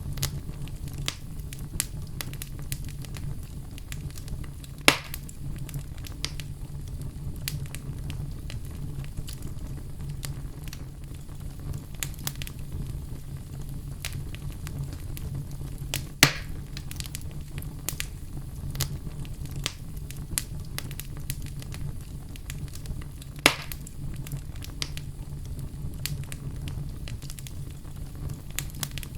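Wood fire in a fireplace crackling steadily over a low rumble, with three louder pops spread through it.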